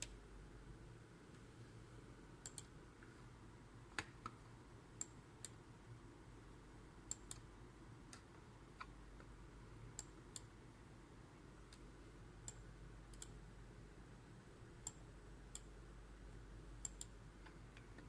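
Sparse sharp clicks, several in quick pairs, over a faint steady hum.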